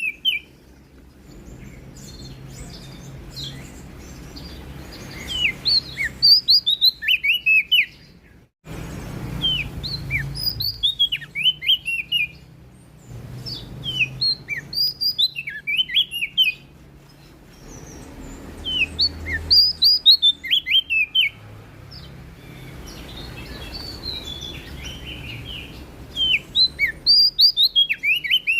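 A prenjak daun (cikrak daun), a small leaf-warbler-type songbird, singing in repeated phrases of rapid, high chirping notes, each phrase lasting a second or two and coming every few seconds, over a faint low hum.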